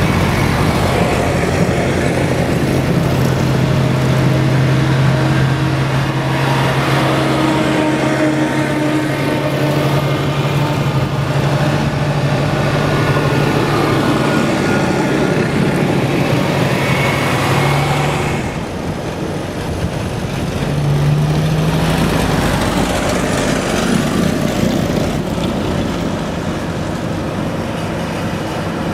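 Tractor engines running steadily. One steady engine note holds for most of the first two-thirds and drops away, then another engine note rises briefly.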